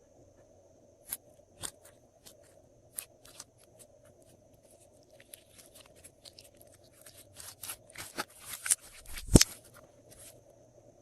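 Glossy slime being worked by hand, giving scattered sticky clicks and small pops. These get busier in the second half, with one louder pop about nine seconds in.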